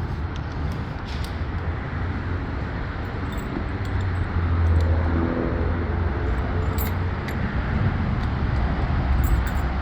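An engine running steadily at idle with a low hum, with a few light metallic clinks over it.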